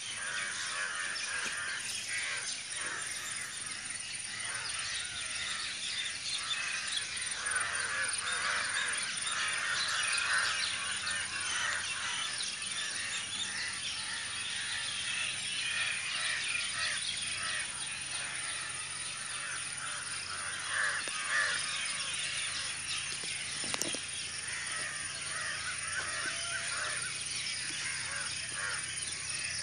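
A flock of birds calling all at once in a dense, continuous chorus of overlapping calls.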